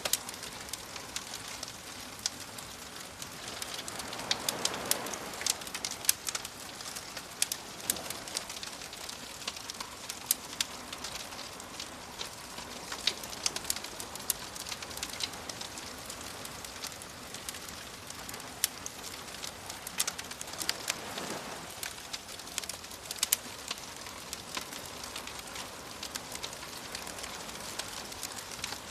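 Campfire crackling, with many sharp pops and snaps, over the soft wash of waves that swells up now and then.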